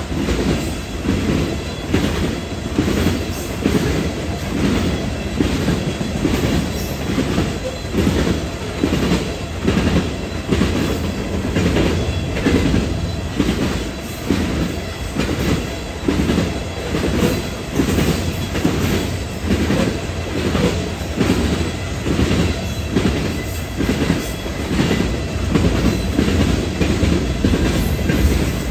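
Train cars rolling past, wheels clacking over rail joints in a steady repeating rhythm, about one and a half knocks a second, over a continuous low rumble.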